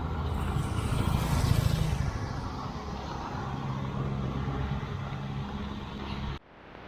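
Street traffic: a motor vehicle's engine running close by, with a steady hum over road noise. The sound cuts off suddenly about six seconds in, leaving quieter street noise.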